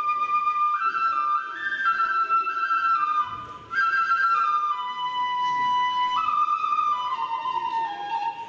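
Kagura bamboo transverse flute (fue) playing a melody of held notes that step up and down and drift lower overall, with a short break for breath a little past three seconds in.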